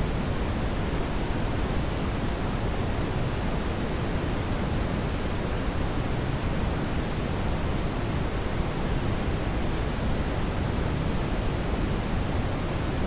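Steady brown noise: an even, deep rushing hiss, strongest in the low end, with no changes.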